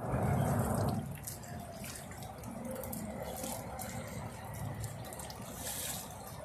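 Rainwater splashing and trickling, loudest in the first second, then a steady lower wash.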